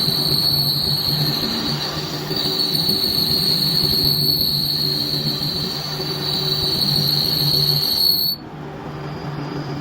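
Metal-turning lathe running, with a steady high-pitched squeal over a low hum. The squeal stops suddenly about eight seconds in, leaving the hum.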